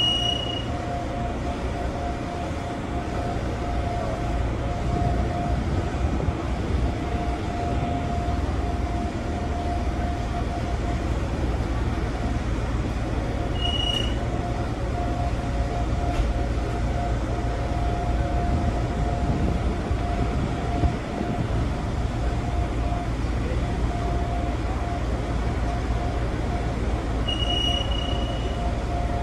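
Gakunan Railway electric train running along the line, heard from inside the car: a steady low rumble of wheels on track with a mid-pitched hum that fades in and out. A short high beep sounds three times, about fourteen seconds apart.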